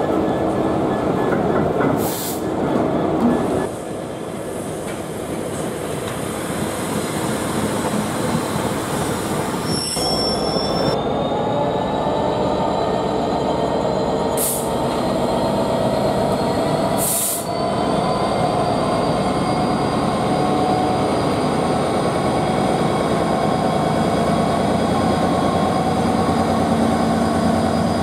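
Freight train of hopper wagons rolling past. About ten seconds in, after a change of scene, a GBRf Class 66 diesel-electric locomotive heads a train of loaded hopper wagons towards the listener and alongside, its engine running under the steady rumble of wheels on rail. Several thin whining tones rise slowly in pitch as it comes on.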